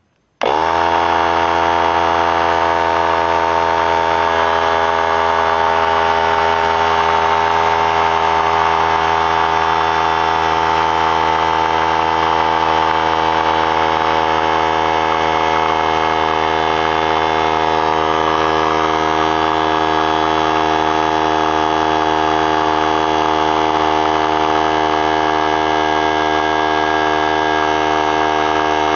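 3-gallon pancake oilless air compressor switching on about half a second in, its motor spinning up almost at once and then running loud and steady as it pumps the tank up toward 100 psi.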